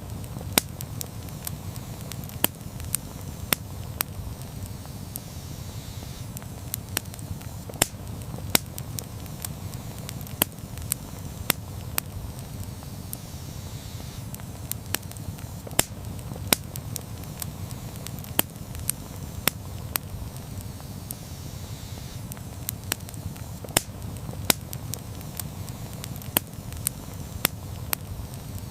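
Wood campfire burning: a steady low rumble of flames with frequent sharp crackles and pops at irregular intervals.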